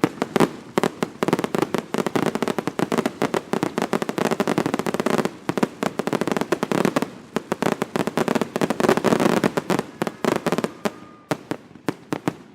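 Daytime fireworks going off in a dense, rapid barrage: many sharp bangs a second over a continuous crackle. There is a brief lull midway, and the volley thins to scattered single bangs near the end.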